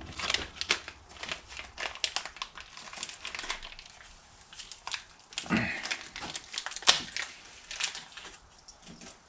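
Irregular crinkling and clicking of parts and material being handled at a workbench, with a heavier knock about five and a half seconds in and a sharp click about a second later.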